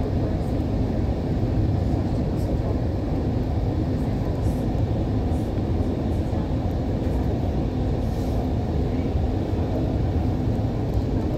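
Steady low rumble of an electric train running along an elevated track, heard from inside the car, with a faint steady hum in it.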